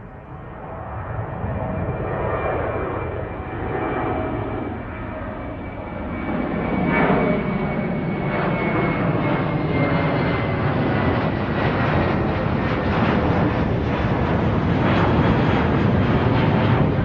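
Airplane engine noise, growing louder over the first several seconds and then holding at a steady, loud level.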